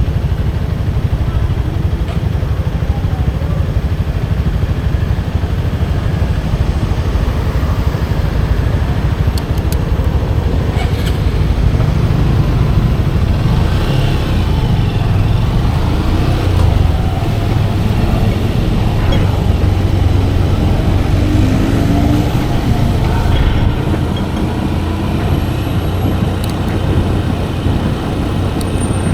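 Motorcycle riding through traffic, its engine running steadily under heavy wind rumble on the microphone, with faint rises and falls in engine pitch in the middle.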